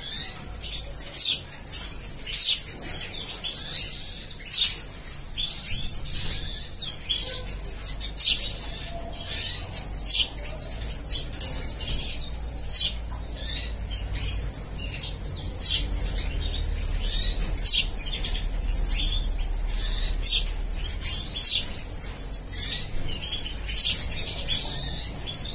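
Small birds chirping: many short, high-pitched chirps, several a second at irregular spacing.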